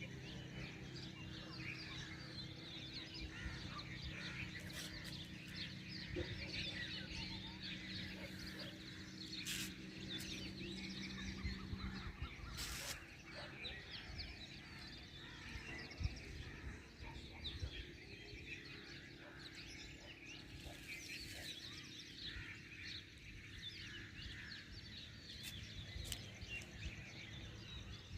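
Many birds chirping together in a dawn chorus: a dense, continuous tangle of short, high chirps and calls. A low steady hum runs underneath and stops about twelve seconds in.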